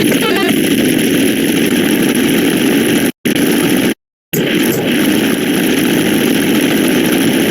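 A loud, harsh, steady rushing noise with no clear pitch, cut off abruptly by two short gaps of dead silence a little after three seconds in and again around four seconds in, then resuming.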